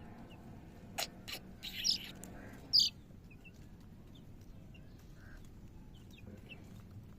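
Young chicken peeping twice, short high calls that fall in pitch, about two and three seconds in, the second the louder; a single click comes just before, about a second in.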